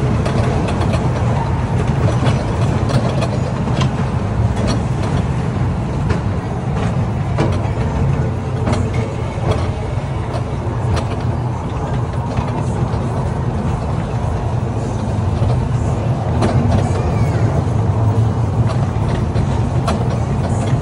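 Small ride-on train running: a steady low rumble with frequent light clicks and rattles from the carriages.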